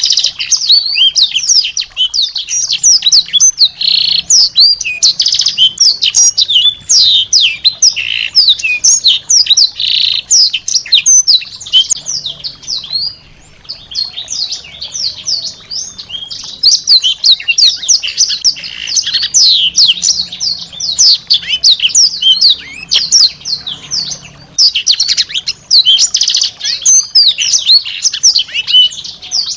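Small songbird singing a fast, continuous stream of short, high, sweeping chirps, with a brief lull about 13 seconds in.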